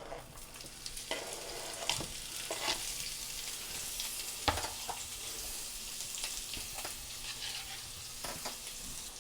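Bite-sized pieces of cooked chicken sizzling in oil in a skillet over medium-low heat, a steady hiss. A utensil clicks and scrapes against the pan a few times as the pieces are stirred.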